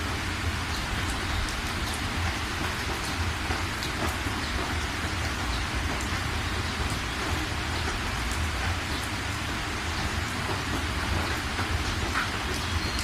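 Steady, even rain with a constant low rumble underneath and scattered sharp drop ticks.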